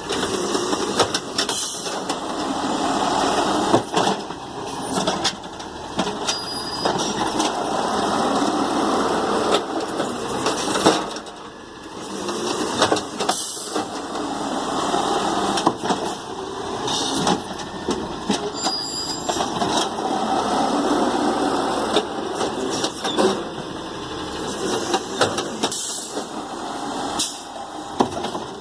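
Garbage truck working a row of trash carts: its engine runs steadily under load, with repeated bangs and clatter as carts are lifted and emptied into the hopper.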